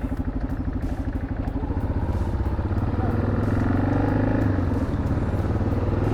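Single-cylinder four-stroke engine of a 1987 Yamaha XT600Z Ténéré running while riding, its rapid firing pulses steady at first, then the note rising about two seconds in as the bike picks up speed.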